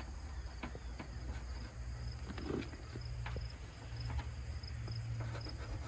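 Crickets chirping steadily in the background over a low hum, with a few faint scattered clicks and knocks.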